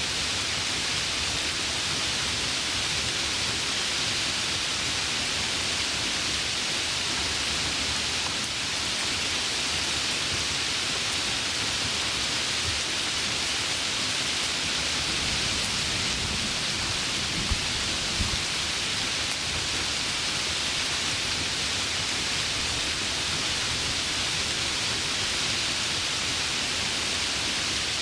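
Heavy rain falling steadily. A little past halfway a low roll of thunder rises under it, with two sharp cracks about half a second apart.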